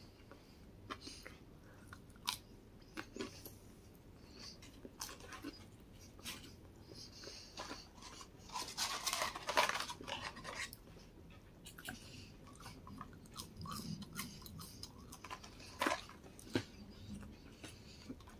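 Chewing and crunching of McDonald's fries and chicken nuggets: a scattered string of small crunches and mouth clicks. About nine seconds in there is a louder rustle of about two seconds from the cardboard fry carton being handled.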